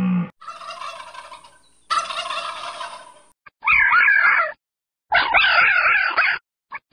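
A bird's calls: two drawn-out calls, then two short rapid warbling bursts of about a second each, separated by brief gaps.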